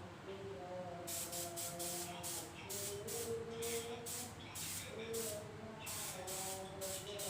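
Aerosol spray paint can sprayed in rapid short bursts, about three a second, starting about a second in, with a brief pause a little after the middle.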